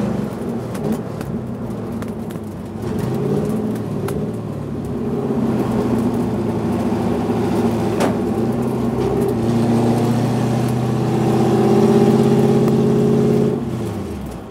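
Race car V8 engine running at speed, its pitch easing and rising with the throttle. Near the end it winds down quickly as the car slows.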